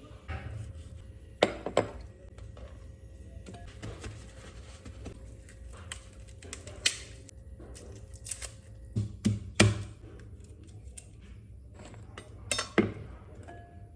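Scattered sharp clicks and knocks of household objects being handled, in a small room, over a low steady hum and faint background music. The loudest knocks come in two pairs, near the start and a little past the middle, then a double knock near the end.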